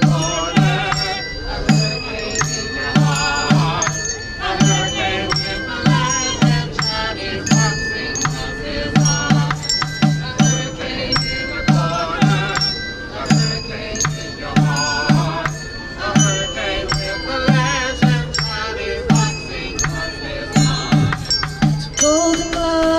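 Instrumental break in a live song: a steady low beat about twice a second under a wavering melody line.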